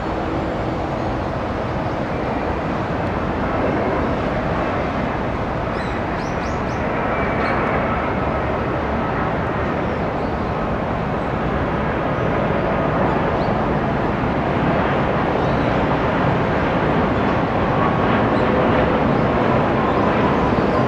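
Boeing 787-8 jet airliner's engines running, a steady loud rush with faint whining tones that slowly grows louder.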